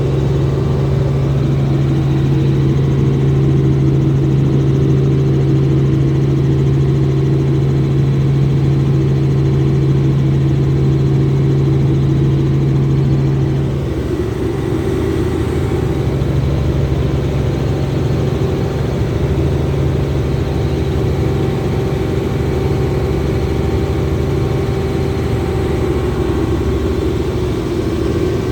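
A helicopter's engine and rotors running with a loud, steady drone. About halfway through, one strong low hum drops away and the drone shifts slightly in tone.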